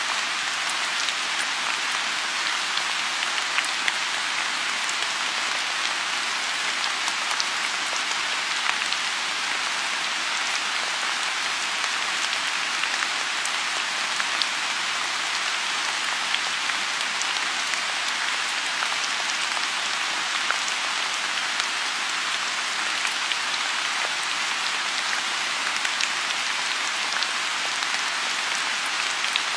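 Steady rain falling on a lotus pond: an even, continuous hiss with many small scattered drop ticks.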